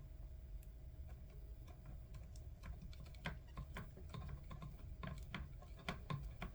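Faint, irregular clicks and taps of small hard plastic headset parts and screws being handled and fitted together, getting busier about halfway through.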